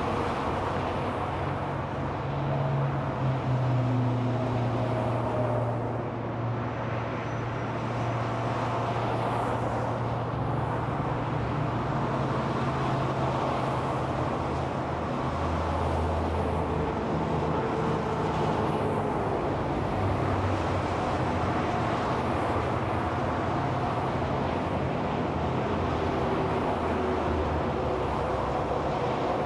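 Steady freeway traffic: a continuous wash of tyre and engine noise from cars and trucks passing on an interstate, with low engine hums that swell and fade as vehicles go by.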